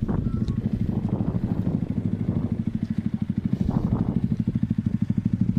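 Yamaha XSR155's single-cylinder engine running steadily under way, its firing pulses coming in a quick, even beat.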